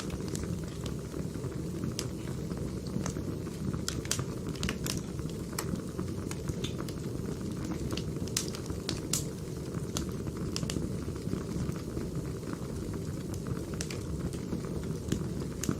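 Firewood burning: a steady low rumble of flames with irregular sharp pops and snaps, more of them between about four and nine seconds in.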